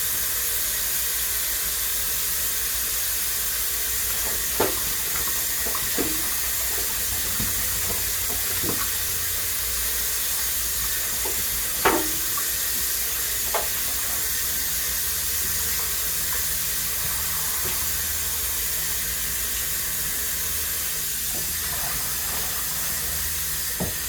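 Kitchen sink faucet running steadily while raw chicken drumettes are rinsed under it, with a few short knocks, the loudest about halfway through. The water is shut off right at the end.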